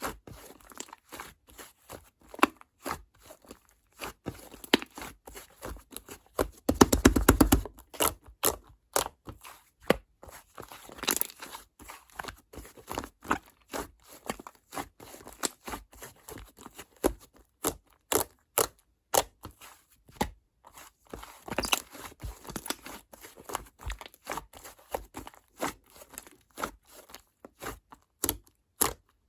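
Slime being squished and poked by hand: a steady run of small wet clicks and pops, with denser, louder squelching clusters about seven seconds in and again about twenty-two seconds in.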